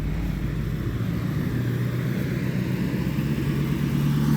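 Ford F-450 King Ranch pickup truck's engine running steadily, growing louder near the end.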